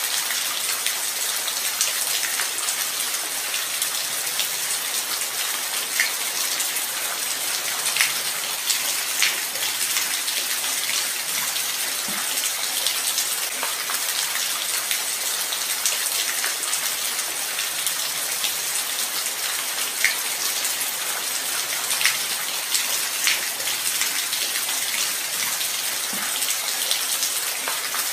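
Light rain falling steadily, a constant hiss with scattered close drop ticks.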